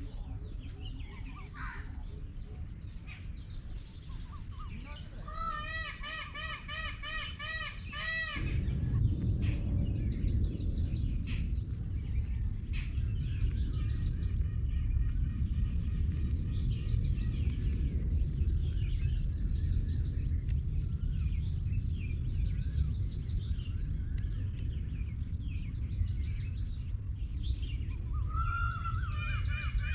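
Birds calling: a run of repeated loud, arching calls about five seconds in and again near the end, over repeated high chirps from small birds. A low rumble comes in about eight seconds in and stays.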